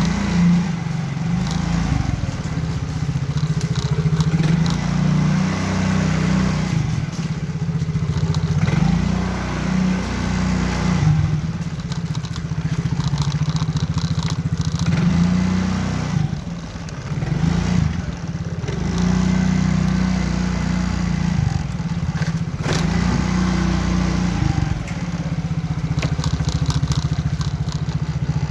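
Motorcycle engine running while riding, its note rising and falling again and again as the throttle opens and closes, with scattered short crackles over it.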